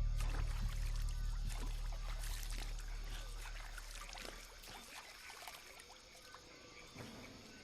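A low film-score drone fading out over the first four seconds or so, under trickling water and scattered small clicks and crackles.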